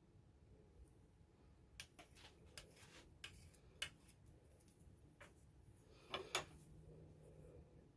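Faint scattered clicks and light taps of small objects being handled, loudest in a quick pair about six seconds in, over a quiet room hum.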